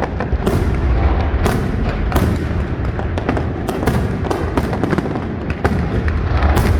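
Fireworks display: a rapid barrage of aerial shell bursts, sharp bangs about two a second over a continuous deep rumble.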